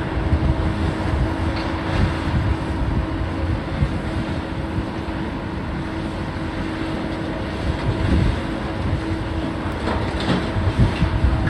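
Heavy demolition machinery running steadily, its engine rumbling under a constant whine, with uneven low knocks throughout.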